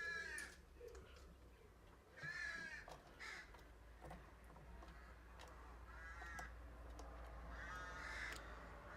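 Barn owl giving short, harsh, rasping calls, about five of them spaced a second or more apart.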